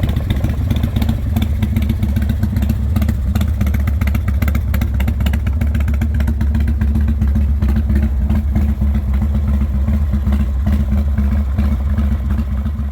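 A 2002 Big Dog Mastiff chopper's S&S 107 cubic inch V-twin engine running loudly at a steady speed, its firing pulses coming thick and even.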